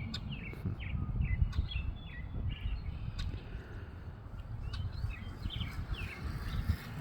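Red-winged blackbird calling: a run of short, quick, sliding chirps in the first few seconds, then another run a couple of seconds later, over a steady low rumble.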